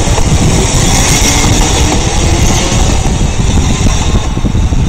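Commuter train running alongside the platform and pulling away: a loud, steady rumble with a hiss that fades about four seconds in as the train leaves.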